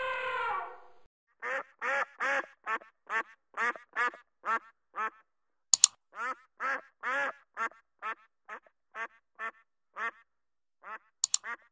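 Waterfowl quacking: loud quacks about three a second in two runs, each run fading as it goes. In the first second a sustained elephant trumpet trails off, and sharp clicks of a subscribe-button sound effect come near the middle and again near the end.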